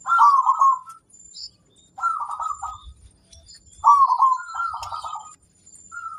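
Zebra dove (perkutut) cooing: three phrases of quick stuttering notes about two seconds apart, the third the longest, with a softer coo starting near the end.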